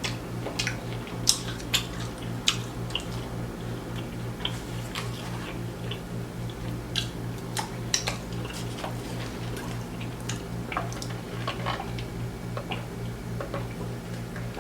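Close-miked eating: chewing and biting into crispy fried food, with scattered sharp crunches and mouth clicks over a steady low hum.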